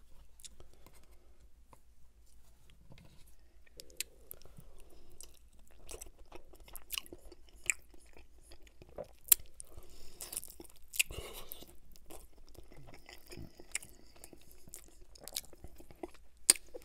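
Close-miked chewing and biting of a sauced chicken wing: wet mouth sounds with scattered sharp clicks and crunches, the loudest snaps about nine seconds in and near the end.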